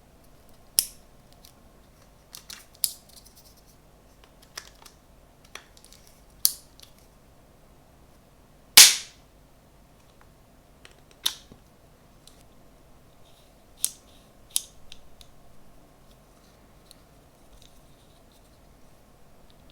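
Sharp clicks and snaps, about ten at irregular intervals, as a smartphone gimbal and its parts are handled during unboxing. The loudest snap comes about nine seconds in.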